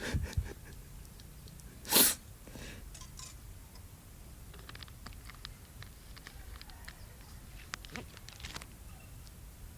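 A person sneezing once, short and sharp, about two seconds in. Small clicks and knocks of food and utensils being handled follow.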